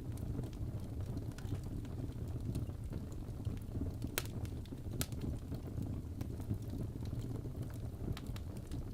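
Fireplace crackling: a steady low rumble of burning wood with scattered small snaps, and two sharper pops about four and five seconds in.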